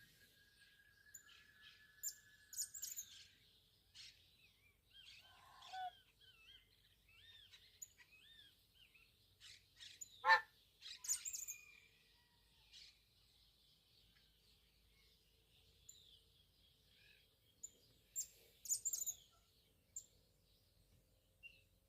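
Birds chirping and calling: scattered short high chirps and curving whistles, with one louder call about ten seconds in and a quick flurry of chirps near the end.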